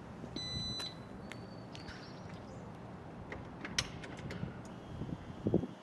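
A short electronic beep, then scattered clicks and a dull thump near the end: handling sounds on a Yamaha XMAX 300 scooter just before its engine is started.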